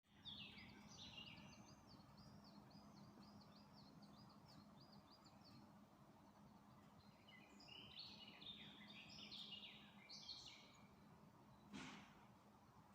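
Faint songbirds singing: a quick run of short, high, repeated notes in the first half, then louder, more varied song phrases about two-thirds of the way in. A brief rushing sound comes near the end, over a steady low hum.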